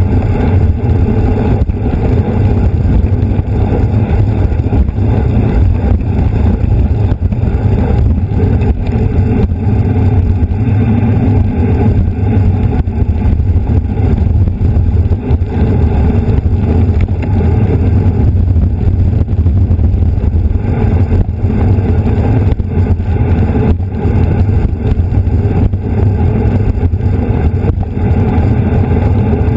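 Loud, steady wind rumble buffeting the microphone of a camera riding on a racing bicycle at speed.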